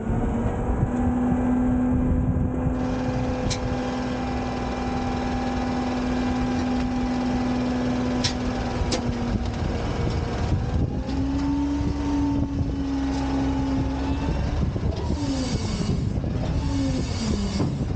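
Autocar/Heil Freedom front-loading garbage truck working its hydraulics under engine load while dumping a bin: a steady whine for about nine seconds with a few sharp clicks, then a higher whine that rises and falls. Near the end come several sliding, squealing tones.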